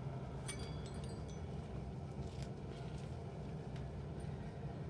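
Steady low background hum, with a few faint, brief high clinks in the first second and a half.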